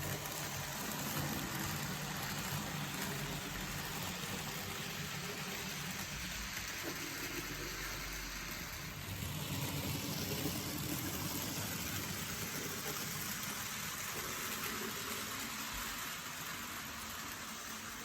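N gauge model trains running on the layout: steady motor and wheel-on-rail running noise, with the recorded diesel engine sound of a Graham Farish class 108 DMU played through its sound decoder.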